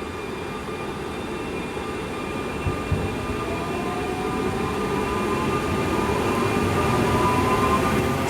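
SNCB class AM96 electric multiple unit running, with a rising whine over a steady rumble that grows louder. Two short knocks come about three seconds in.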